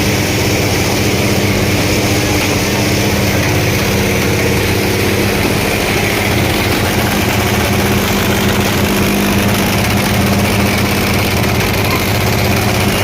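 Tractor diesel engine running steadily and loud.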